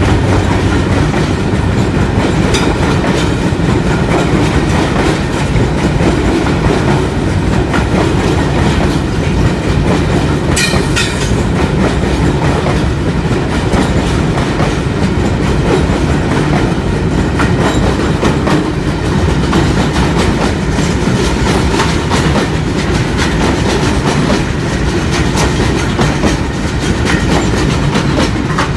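Freight train's coal wagons rolling past, a steady rumble with the continuous clickety-clack of wheels over rail joints. A brief high squeal about eleven seconds in.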